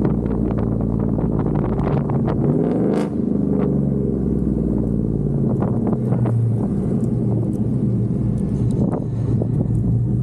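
2011 GMC Sierra's 5.3 L V8 running through long-tube headers, full 3-inch piping and a MagnaFlow bullet muffler on a fresh tune, a steady deep exhaust note. About three seconds in, the engine pitch swings up and back down with a brief dip in level.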